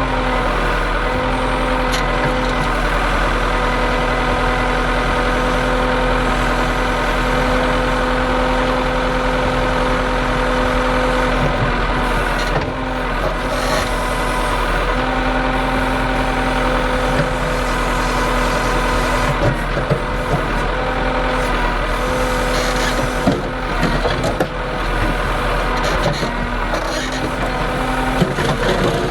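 Heavy vehicle engine idling steadily, with scattered knocks and clatters in the second half.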